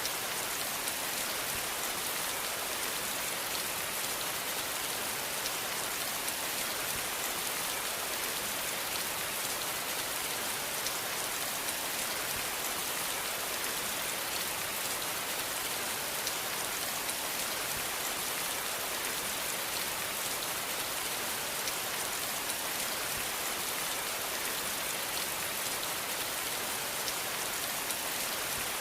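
Steady rain falling, an even hiss with scattered faint drop ticks and no thunder.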